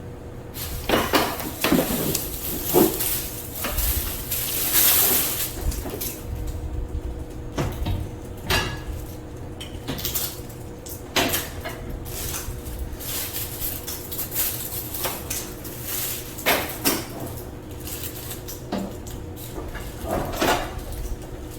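Repeated knocks, clunks and scraping of a window air conditioner's casing against the window frame as the unit is lifted and slid into place, with a longer scrape about five seconds in.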